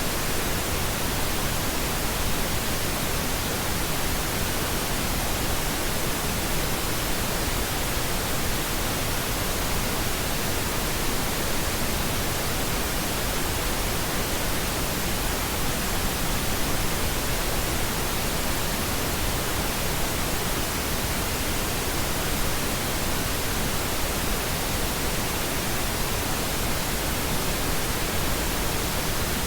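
Steady synthetic pink noise: an even, unchanging hiss spread across all frequencies, without any events or variation.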